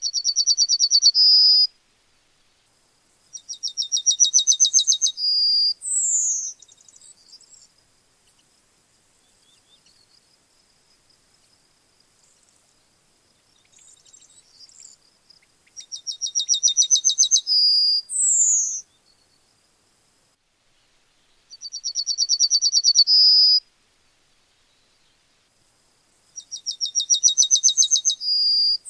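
Yellowhammer singing: five songs a few seconds apart, each a fast run of repeated high notes ending in a longer drawn-out note, some followed by a short falling note.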